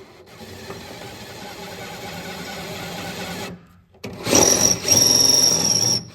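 Power drill boring a hole through the metal deck of a flatbed truck. It runs steadily, stops about three and a half seconds in, then starts again louder with a high, steady whine.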